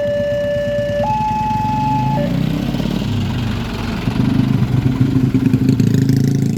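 Level crossing warning alarm sounding a two-tone electronic signal, alternating between a low and a high note about every second, which cuts off about two seconds in. Motor vehicle engines then run and grow louder from about four seconds in, as traffic moves off across the crossing.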